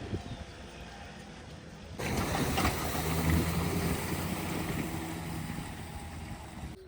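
Wind rushing over the microphone in a snowstorm. In the middle a low steady engine hum joins it, from a vehicle running or passing.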